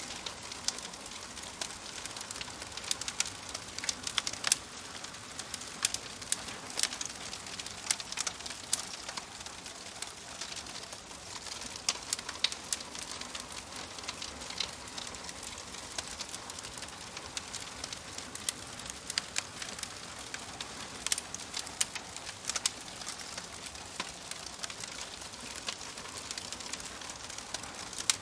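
Wood fire crackling, with frequent irregular sharp pops and snaps over a soft steady hiss.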